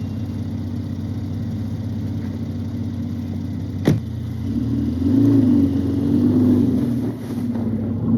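Twin-turbo Mercedes-AMG engine pulling at low speed in first gear, a steady low hum that grows louder about halfway through, its pitch wavering up and down for a few seconds before easing off. A single sharp click just before the engine picks up.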